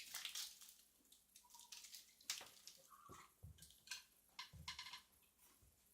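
Mostly near silence, with scattered faint crackles, clicks and a few soft low thuds from someone eating a chocolate-covered wafer bar and handling its wrapper.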